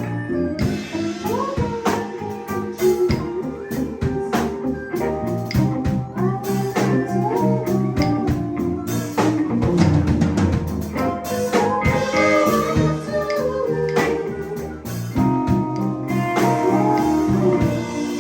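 Live band playing an instrumental jam: electric guitar with bending lead notes over bass and a drum kit.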